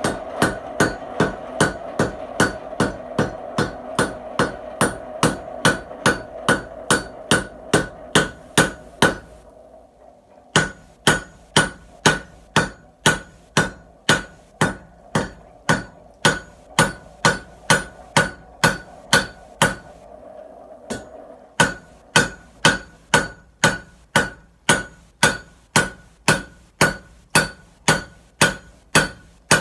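Hand hammer striking a hot twisted Damascus billet on an anvil in a steady rhythm of about three blows a second, each blow with a bright ring, drawing the square corners down toward an octagon. The hammering pauses briefly twice, and a steady hum runs under it in the first third and again just before the second pause.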